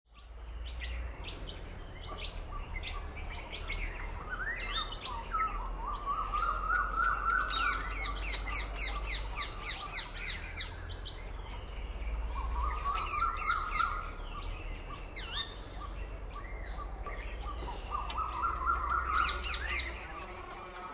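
Several birds chirping and calling, with bursts of rapid high trills and a lower call that rises and then holds, heard three times. A low steady hum runs underneath.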